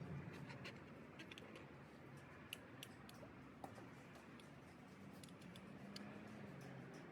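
Near silence: faint, scattered small clicks and ticks over a low steady hum.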